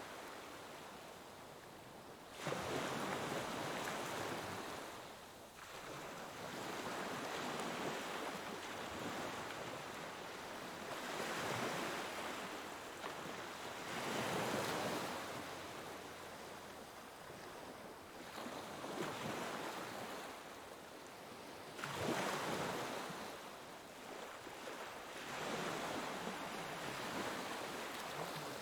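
Ocean waves breaking on a shore, each one arriving in a sudden surge of surf noise and then washing back. About five or six waves break, with the sharpest arrivals a couple of seconds in and about 22 seconds in.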